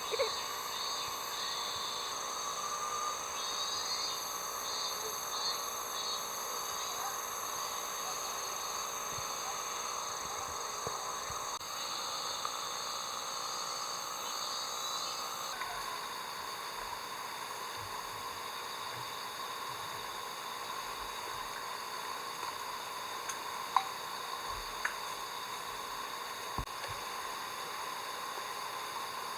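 A steady chorus of insects chirping and buzzing, high and continuous, with a pulsing pattern early in the stretch and a single sharp click later on.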